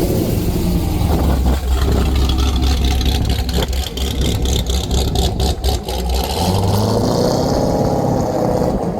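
A car engine running close by with a deep rumble, its pitch falling and then rising again in a swell near the end, like a car revving or pulling through.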